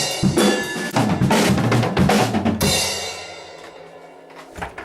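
Acoustic drum kit played hard, kick, snare and cymbals in quick strokes, stopping about two and a half seconds in and leaving the cymbals ringing out, with one more hit near the end.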